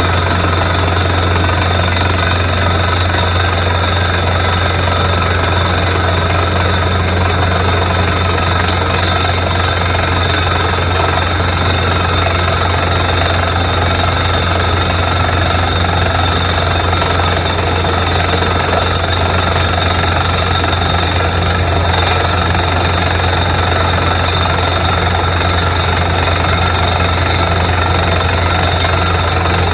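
Borewell drilling rig running steadily while drilling: a loud, continuous machine din of the rig's engine and air-driven hammer, with a deep hum underneath.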